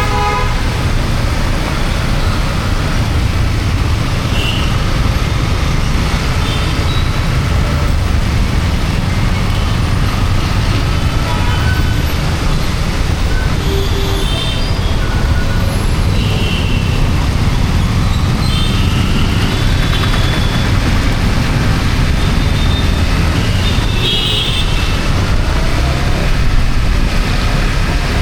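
Riding noise from a Yamaha MT-15 motorcycle on a wet road: a steady, loud low rumble of engine, tyres and wind. A few brief high-pitched tones come from passing traffic.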